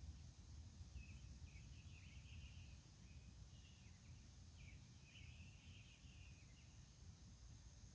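Faint chirps from birds singing before dawn, short and irregular and coming every second or so, over a low rumble of background noise and a faint steady high hum.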